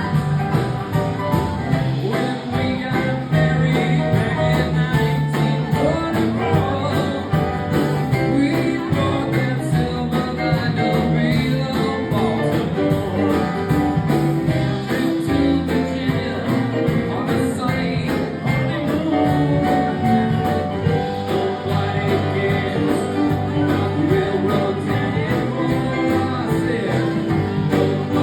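Acoustic guitar music played live, with a voice singing over it.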